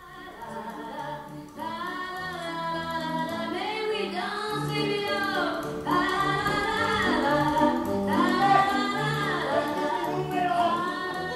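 Music with several voices singing together, choir-like, growing louder over the first few seconds.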